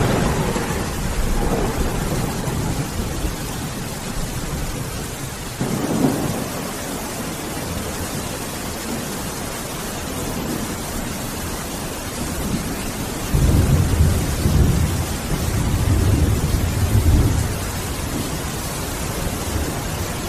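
Steady heavy rain with thunder rolling several times: a rumble at the start, a sharper crack about six seconds in, and a long, loud roll from about two-thirds of the way through that fades out near the end.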